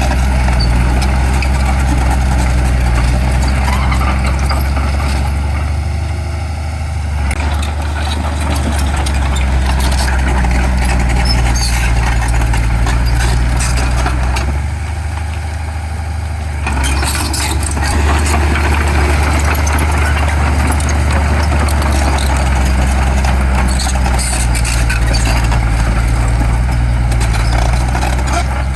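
Heavy diesel engines of earth-moving machinery running, the load easing off twice, around six seconds in and again around fifteen seconds in, with scattered clanks over the top.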